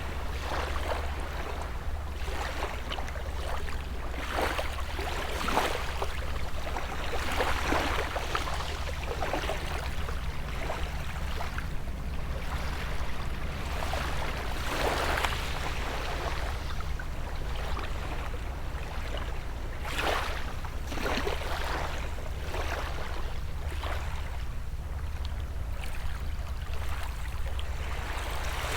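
Small sea waves lapping and washing onto the shore in irregular swells every second or two, over a steady low hum.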